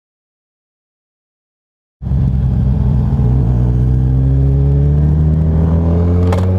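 About two seconds of dead silence, then the Kawasaki Ninja 1000's inline-four engine cuts in abruptly. It runs with a low drone that rises slowly in pitch as the motorcycle gains speed.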